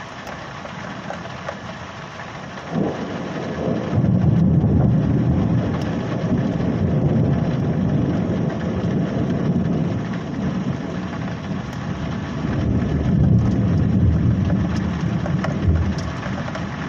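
Rolling thunder: a sudden clap about three seconds in, then a long, loud low rumble that swells and eases several times. Rain hisses steadily underneath.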